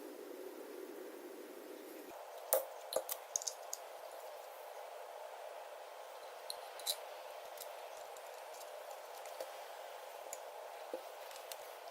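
A few sharp clicks and taps, bunched together about two and a half seconds in and then scattered singly, over a steady faint hiss.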